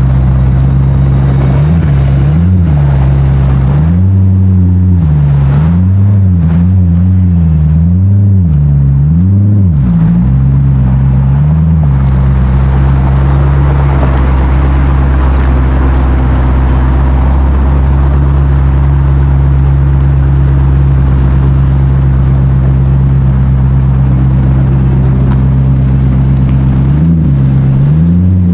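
A car engine running loud and deep at close range. It is revved up and down in a string of short throttle blips for the first dozen seconds, settles to a steady idle, and is blipped again near the end.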